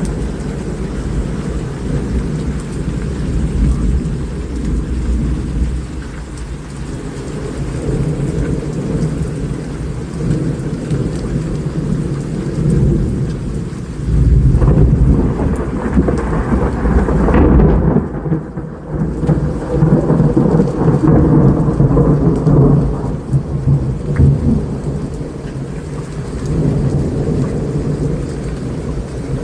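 Heavy rain with rolling thunder; the rumble swells to its loudest about halfway through, then eases off toward the end.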